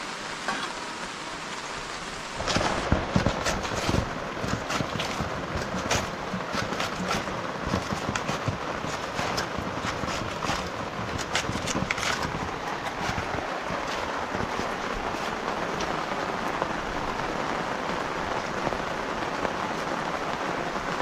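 Steady rain falling, with many sharp drips striking a surface. About two and a half seconds in it grows louder and fuller, with the drips densest over the next several seconds before it settles into an even hiss.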